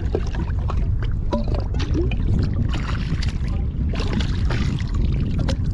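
Wind buffeting the microphone with a constant low rumble, over water splashing and sloshing in bursts as a ghost shrimp pump is rinsed in the shallows.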